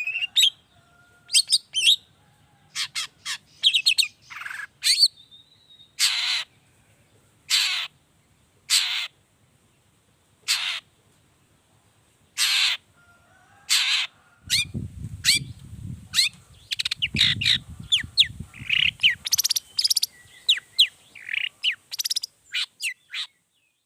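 Long-tailed shrike (cendet) calling: single harsh, rasping notes spaced a second or two apart, then a quicker run of varied chirps and whistles near the end. A low rumble sits under the calls for a few seconds in the middle.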